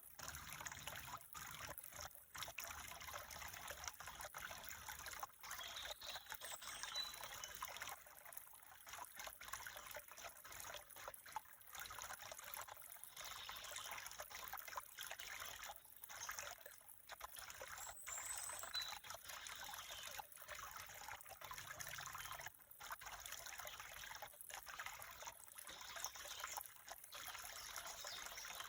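Water trickling steadily, as of a small stream, with a few faint high chirps above it.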